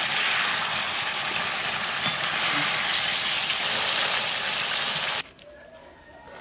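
Egg curry sizzling in a metal kadai: a steady frying hiss with one sharp tick about two seconds in, cutting off suddenly about five seconds in.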